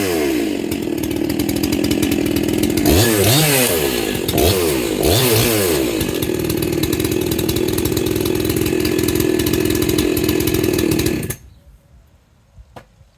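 A large-class 70–80cc two-stroke chainsaw running, its throttle blipped several times about three to five seconds in, then held steady. The engine cuts off abruptly about eleven seconds in.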